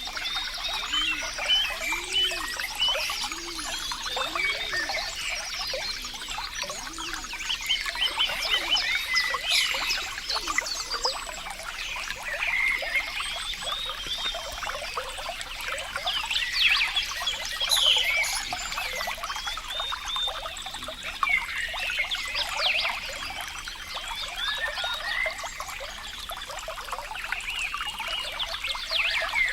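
Running water trickling and gurgling: a steady, dense babble of small splashes and bubbling plinks.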